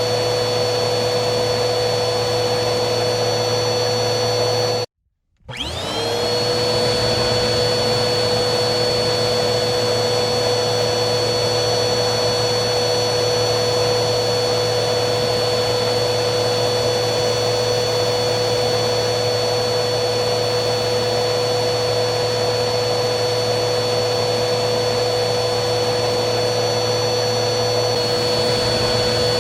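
Vacuum cleaner running steadily with a motor whine over its rushing airflow. About five seconds in it cuts out abruptly for half a second, then comes back with its whine rising quickly back up to speed.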